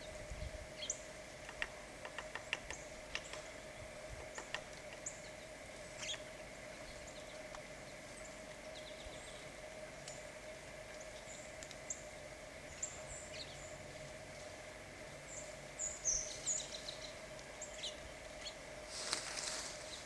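Small birds giving short, high chirps and chips, scattered at first and in a quick, louder run about two thirds of the way in, over a steady faint hum.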